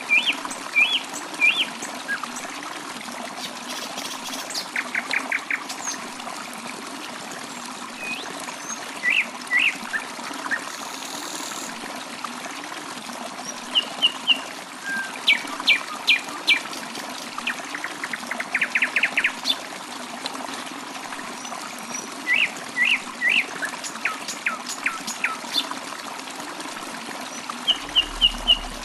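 Birds chirping and calling in short, scattered phrases, some as quick trills, over a steady trickle of running water.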